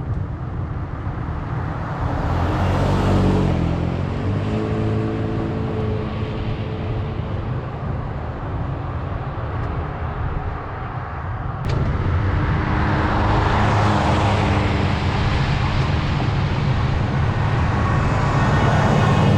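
Motor vehicles overtaking on the road over steady wind and road noise, each one's engine and tyre noise swelling as it goes by: one pass a few seconds in, and a louder one from about twelve seconds in. A sharp click comes just before the second pass.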